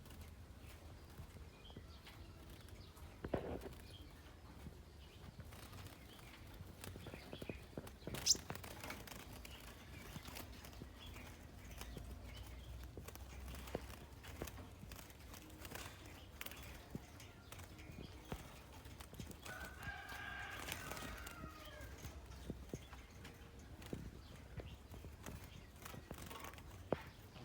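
Faint, sparse chirps and ticks from small birds, scarlet-backed flowerpeckers, with one sharp high chirp about a third of the way in and a brief twittering call about three quarters of the way through.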